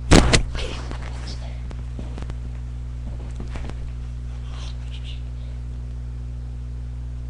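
A loud burst of sharp knocks right at the start, then a few faint taps and rustles, over a steady low hum.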